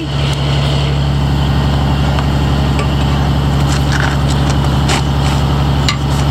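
An engine running steadily at idle, a constant low hum, with a few faint clicks over it.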